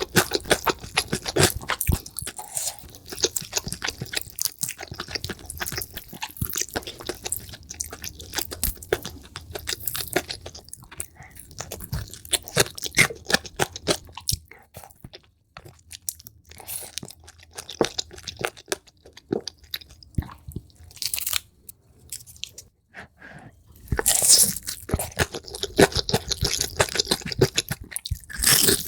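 Crunchy chewing and biting of food, sped up: a dense run of crisp crunches that thins out in the middle and comes back loud near the end.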